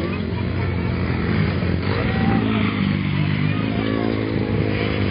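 Motocross motorcycle engines running steadily, with the engine note holding at a fairly constant pitch.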